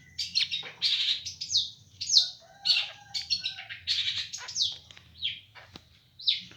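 Small songbird chirping: a quick run of short, high chirps, each dropping in pitch, several a second.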